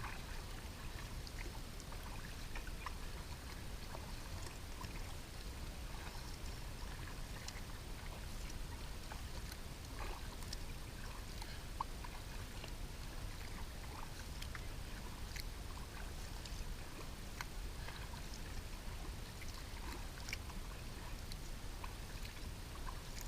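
Kayak paddling on a lake: small water splashes and drips from the paddle, over a steady low rumble.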